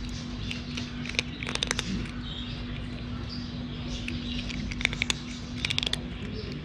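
Cat eating dry food: two spells of quick crunching clicks as it chews, over a steady low hum.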